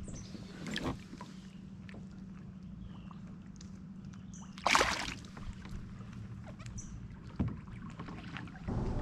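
Small knocks and rustles in a kayak while a just-caught bass is handled, over a steady low hum. A short, loud rush of noise comes about five seconds in, and a single knock follows a couple of seconds later.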